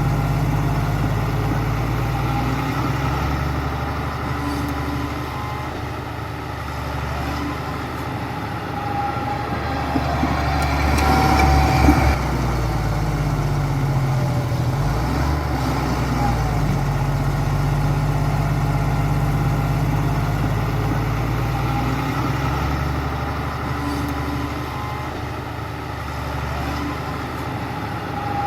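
Heavy diesel construction machinery running, the engine note rising and falling as it works under changing load, swelling loudest about eleven or twelve seconds in.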